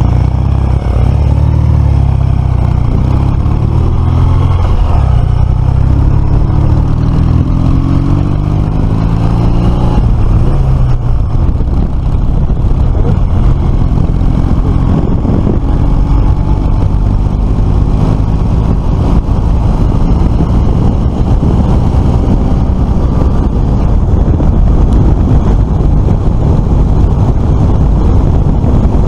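Suzuki FL125 Address scooter's 125 cc single-cylinder engine pulling the bike along the road, rising steadily in pitch as it accelerates over the first ten seconds, then running on at speed with wind rumbling on the microphone.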